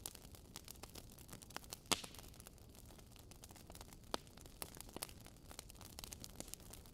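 Wood fire burning in a fireplace: logs crackling with irregular sharp pops, the loudest about two seconds in and again just after four seconds, over a faint hiss.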